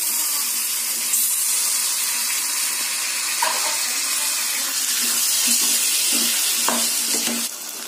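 Washed raw chicken pieces sizzling in hot oil and masala in a steel pan, a steady loud hiss, with a steel spatula knocking and scraping the pan a few times as it is stirred. The hiss cuts off suddenly shortly before the end.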